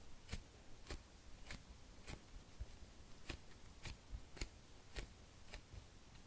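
A slow-rising foam food squishy toy being squeezed by hand over and over, about ten soft crackly squishes spaced roughly every half second or so.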